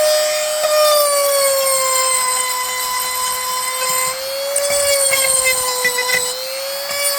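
High-speed power carving tool cutting into a wooden log, a steady high-pitched whine that dips and recovers slightly in pitch as the bit bites into the wood.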